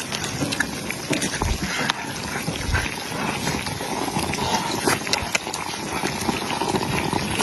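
Small Guizhou tofu cubes sizzling in oil on a griddle, a steady crackling hiss with scattered sharp clicks and taps.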